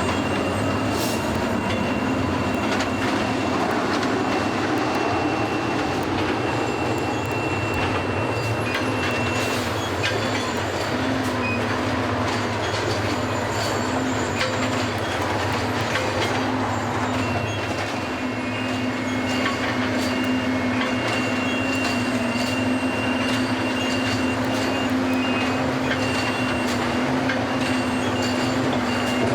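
Track renewal train's machinery running steadily as it creeps along the track: a constant engine drone with a thin high whine and scattered metallic clanks and clicks.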